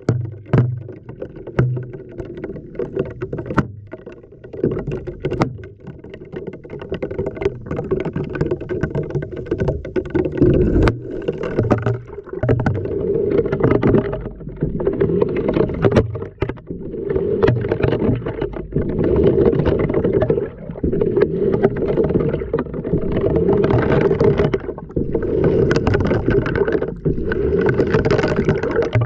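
Water sloshing and churning inside an LG washing machine drum as it turns, heard from within the drum, surging in waves every second or two, with a few sharp knocks.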